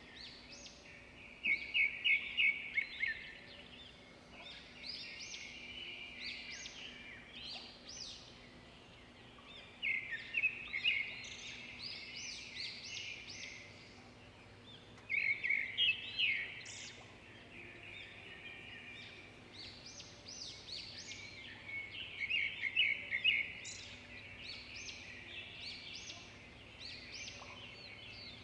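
Birds chirping and trilling in loud bursts of quick notes every few seconds, over low steady background noise.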